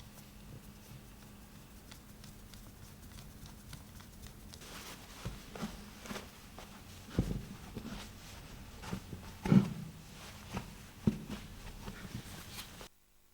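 Irregular knocks and clicks of objects being handled, starting a few seconds in, with two louder clunks in the middle. The sound cuts off suddenly just before the end.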